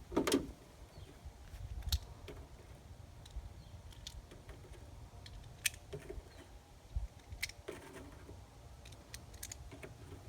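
Scattered small clicks and rustles of hands handling clothing, holster and pistol, about a dozen irregular clicks over a low wind rumble; no gunshots.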